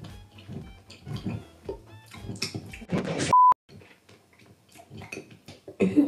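Close-miked chewing and mouth sounds of someone eating a snack into a handheld microphone: wet clicks and crunches. A little over three seconds in, a brief steady censor bleep.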